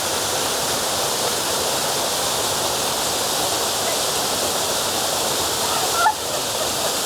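Waterfall: a steady, even rush of falling water, with a brief louder sound about six seconds in.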